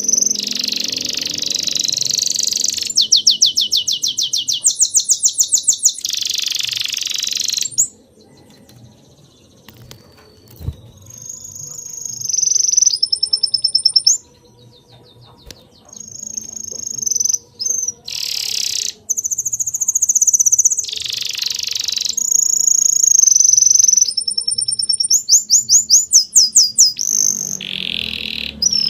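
Birds singing and chirping in high-pitched calls, including fast trills of rapidly repeated notes, with two short quieter pauses between bouts.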